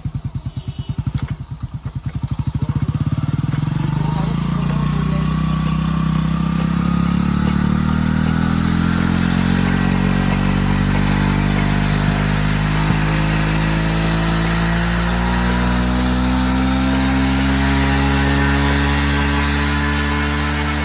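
A motorcycle engine turning over a Field Marshall engine to start it. For about two seconds there are separate chugs, then the running sound builds, and its pitch rises steadily as the engines speed up.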